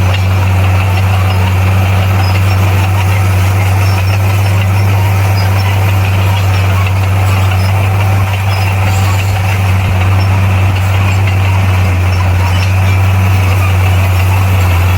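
Bulldozer's diesel engine running steadily with a deep, constant hum.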